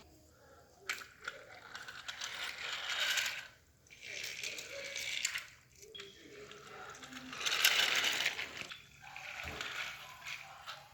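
Small motor and plastic gears of a battery-powered toy engine running, a whirring, ratcheting rattle that comes and goes in uneven stretches.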